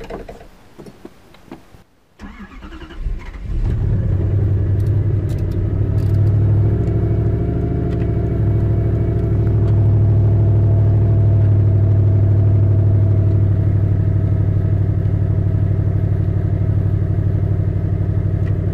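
Turbocharged Lexus LS400 1UZ V8 being started: a short crank about two seconds in, catching about a second later and settling into a steady idle.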